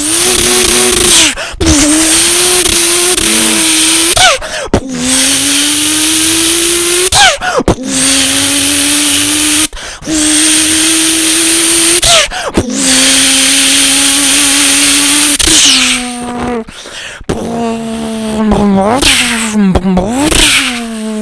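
A man imitating a turbocharged Toyota Supra 2JZ engine with his voice: long held engine notes that climb slowly in pitch, with a hissing turbo whoosh over them. The notes are broken by short breath pauses, and near the end the pitch wobbles and sweeps up and down quickly.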